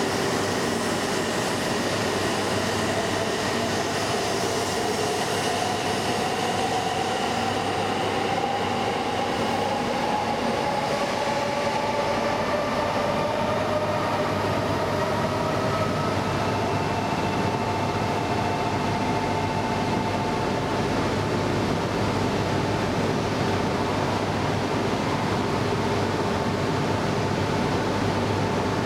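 E2 series 1000 Shinkansen accelerating away from the platform: its traction motors whine in a slowly rising pitch over a steady rumble of wheels on rail. The whine levels off about halfway through.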